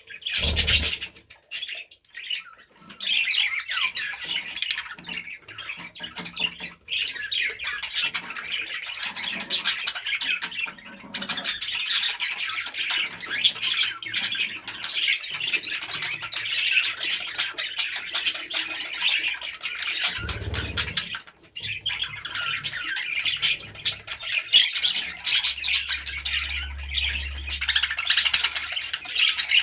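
A flock of budgerigars chattering: dense, overlapping chirps, squawks and warbles that keep up almost without pause, briefly thinning out a few times.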